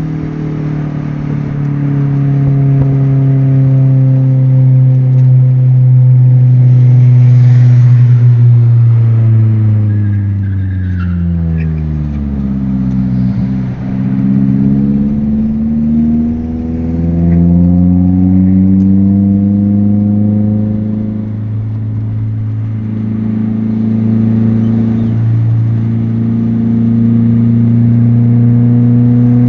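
2014 Nissan Sentra's four-cylinder engine running through aftermarket headers, exhaust and an HKS muffler. It holds a steady pitch at first. Its pitch falls smoothly as the car slows, then climbs again as it accelerates, and settles into a steady run.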